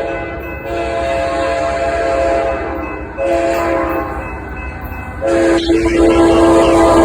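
Diesel locomotive's multi-chime air horn blowing the grade-crossing signal: the tail of a long blast, then a long, a short, and a final long blast that is still held at the end, over the low rumble of the train.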